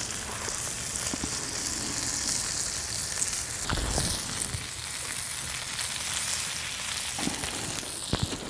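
Steak, loaded baked potatoes and bacon-wrapped jalapeño poppers sizzling on a cast-iron griddle over a campfire: a steady hiss with a few scattered pops.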